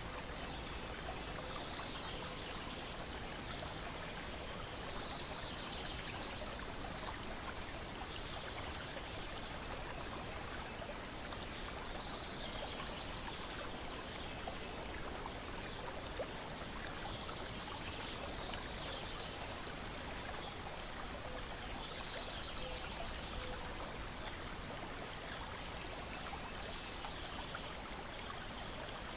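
Lake water lapping and trickling against a shore and deck in a steady wash, with faint crackles of a wood fire and high bird chirps returning every couple of seconds.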